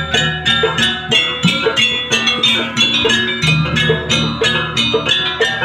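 Jaranan campursari gamelan music: bronze metallophones struck in a quick, even rhythm of about four strokes a second, over drums.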